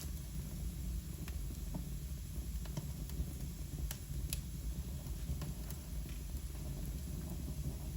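Wood fire burning in a fireplace: scattered sharp crackles and pops, several a second at times, over a steady low rumble.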